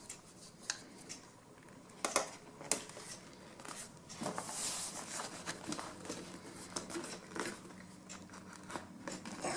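Upholstery cover material being handled and positioned over a motorcycle seat, crinkling and rustling, with scattered small clicks and a longer rustle about halfway through.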